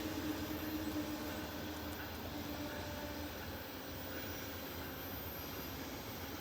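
Amtrak passenger train rolling on the rails: a steady rumble, with a faint hum that fades about three seconds in.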